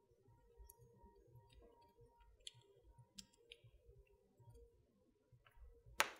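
Wood fire crackling in a fireplace: scattered faint crackles and small pops, then one loud, sharp pop near the end.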